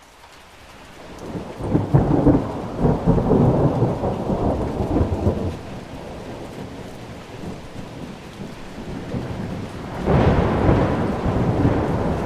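Tropical thunderstorm: rain falling steadily, with a roll of thunder that builds in the first two seconds and rumbles on to about five seconds in, and a second rumble breaking about ten seconds in.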